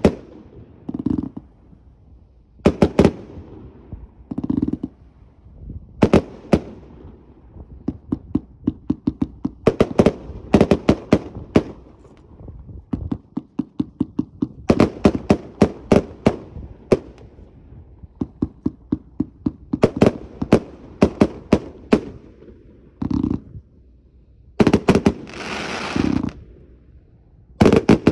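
Fireworks going off in quick succession: deep launch thumps, sharp bursting reports and fast runs of cracks. Near the end, a rushing hiss rises under the shots.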